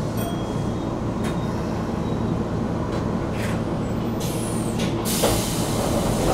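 Keisei electric train standing at a station with its equipment humming steadily. Short puffs of escaping air come about one and three and a half seconds in, a falling whistle follows, and then a loud burst of hissing air starts near the end.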